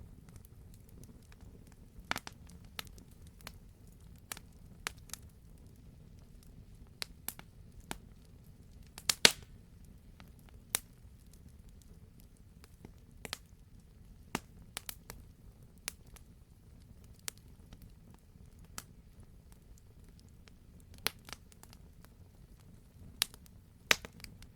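Wood fire burning in a fireplace: irregular sharp crackles and pops over a low steady rumble, with a loud cluster of pops about nine seconds in.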